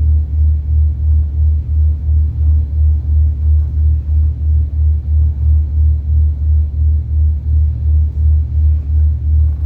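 Ferry's engine running, a deep rumble that throbs evenly about three times a second.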